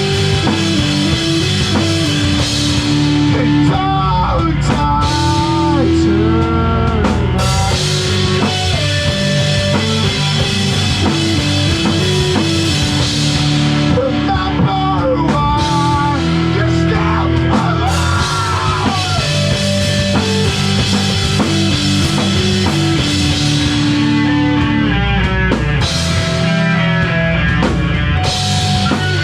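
Live rock band music: drum kit and electric guitar playing steadily, with sung vocals coming in at times.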